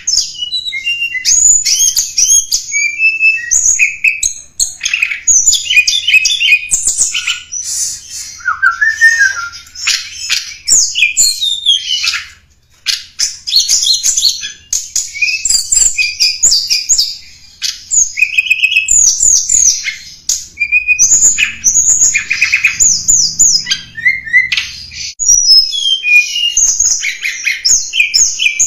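Tledekan gunung song: long runs of rapid, varied, high chirps and trills with short pauses between phrases. It is a recording made to lure wild birds of the same species.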